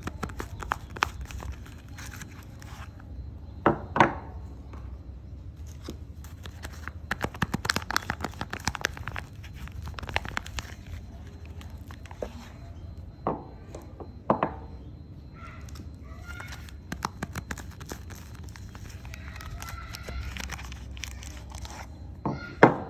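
Soap bars being unwrapped: wrapping crinkling and tearing in close, crackly handling, with a few sharp knocks, two of them close together just before the end.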